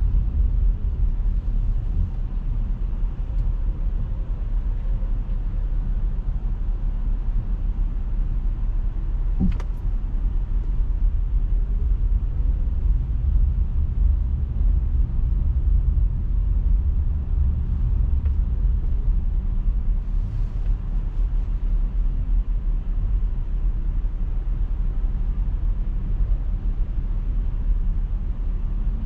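A car driving, giving a steady low road-and-engine rumble, with a single short knock about nine and a half seconds in.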